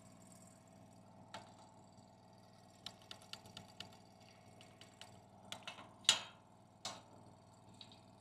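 Light metal clicks and taps from handling steel stock and a clamp: a quick run of clicks about three seconds in, and a sharper knock about six seconds in.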